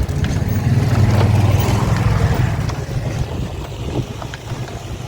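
Wind buffeting the microphone over the low rumble of a moving open-air tram, loudest in the first couple of seconds and then easing off.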